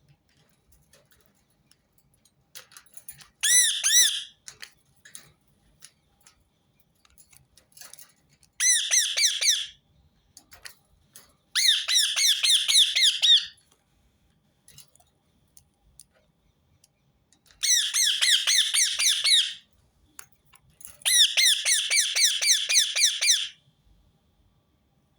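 Rose-ringed parakeet calling in five bursts of rapid, shrill, repeated screeching notes, each burst one to two seconds long, with quiet gaps between.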